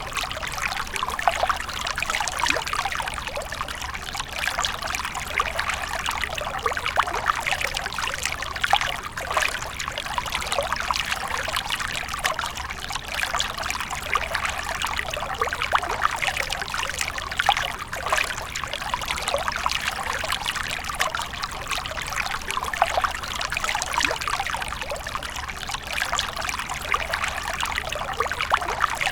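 Fountain water trickling and splashing steadily.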